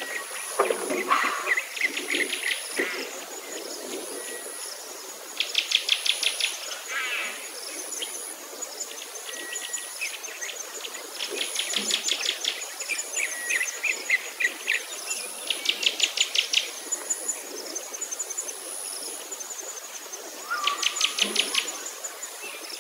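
Songbirds singing: a rapid high trill of about a second, repeated roughly every five seconds, with scattered chirps between and a thin very high note pulsing over and over.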